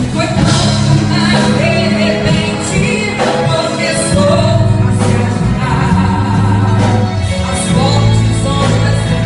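Gospel song: a woman singing over band accompaniment with a steady bass.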